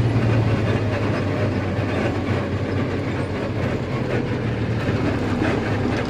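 Truck driving along the road, heard from the cab: a steady low engine drone under a constant clattering rattle.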